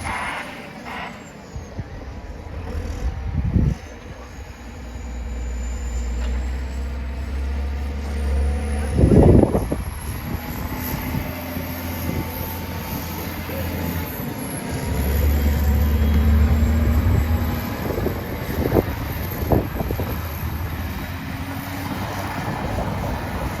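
John Deere 770G motor grader's heavy diesel engine running steadily while plowing snow, with its low rumble rising and easing. A few sharp knocks cut through it, the loudest about nine seconds in.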